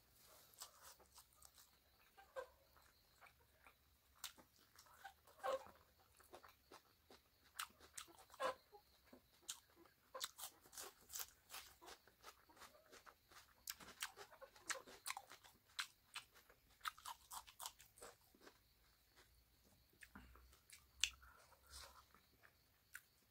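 A person chewing a mouthful of pork and rice: quiet, wet mouth sounds made of many short sharp clicks and smacks, busiest in the middle.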